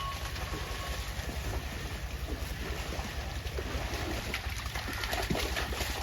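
Canal water sloshing and splashing around bathing water buffaloes, over a steady rumble of wind on the microphone, with a few sharper splashes near the end.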